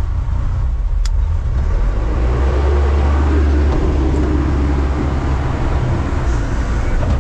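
Scrap-metal baler running under load, a steady low rumble. A single sharp click about a second in.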